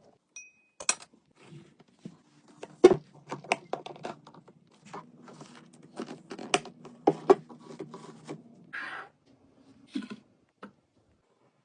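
Plastic containers and food packages being handled and set down while restocking a fridge: a string of sharp clicks and knocks over a low steady hum, with a short rustle near the end.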